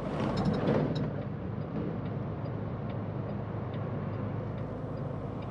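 Semi truck's engine and road noise heard from inside the cab while driving, a steady low drone that is a little louder in the first second.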